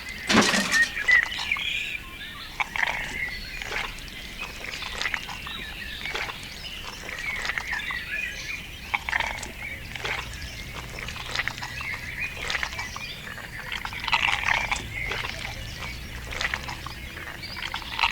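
Animal calls: many short, high-pitched cries repeating irregularly throughout.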